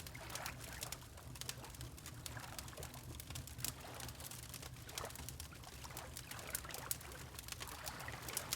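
Layered ambience of a crackling fireplace, with frequent sharp crackles and pops over a low rumble, mixed with gently lapping water that comes in soft recurring swells.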